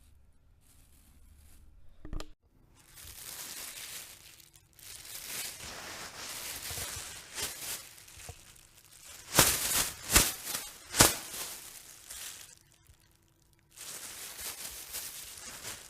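A plastic bag being handled, crinkling and rustling in uneven stretches. Three loud, sharp crackles come close together about nine to eleven seconds in.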